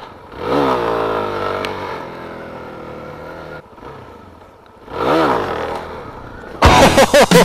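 Suzuki DR-Z400's single-cylinder four-stroke engine revving up and dropping back twice, a few seconds apart. Loud guitar rock music cuts in near the end.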